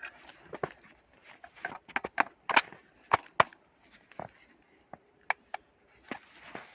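Irregular sharp clicks and knocks, about a dozen, of an airsoft electric shotgun's parts being handled, with no shots fired.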